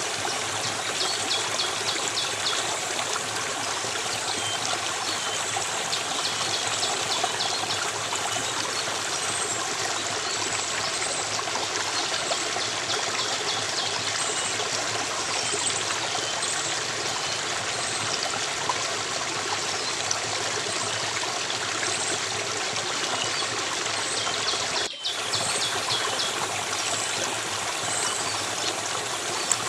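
A stream of running water trickling steadily, with small birds chirping in short repeated phrases over it. The sound cuts out for an instant about 25 seconds in.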